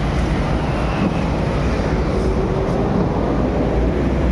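Steady engine and road noise of a moving vehicle, heard from inside the cabin.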